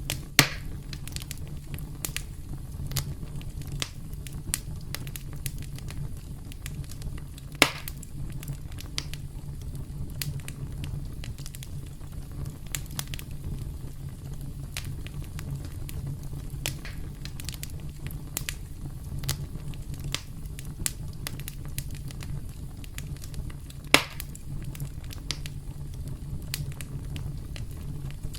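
Campfire crackling steadily, with frequent small snaps and three loud pops: one right at the start, one about a third of the way in, and one a few seconds before the end. A steady low rumble of the burning fire runs underneath.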